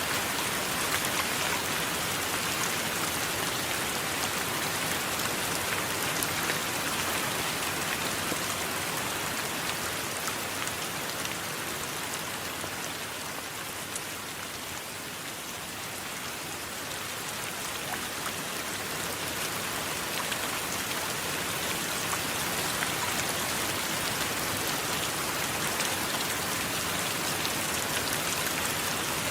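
Steady heavy rain falling, with many individual drops pattering on a surface. It eases a little around the middle, then builds back.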